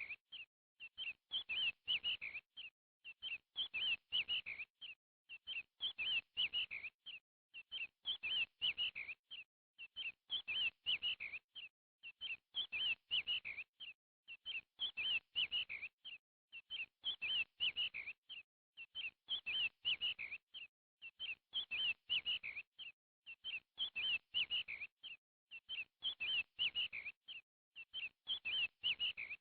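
Bird chirping in short bursts of several quick high chirps, repeating very evenly about every second and a half.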